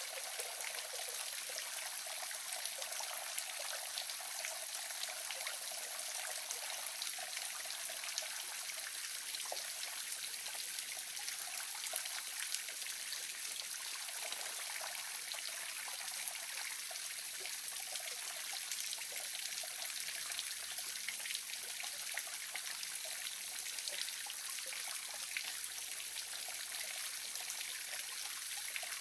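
Small waterfall splashing and trickling steadily, an even hiss of falling water with fine droplet splashes.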